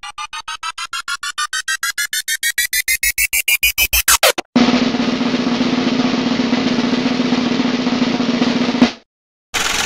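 A rising build-up sound effect: a snare-like drum roll of rapid hits under a tone that climbs steadily in pitch and grows louder, cut off about four and a half seconds in. It is followed by a steady buzzing noise with a low hum that stops abruptly near the end.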